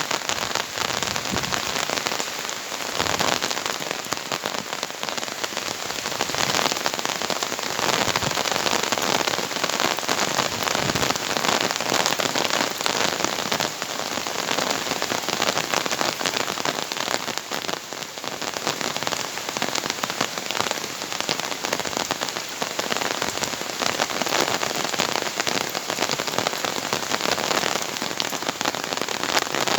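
Heavy rain pouring down, a dense steady hiss of drops striking surfaces.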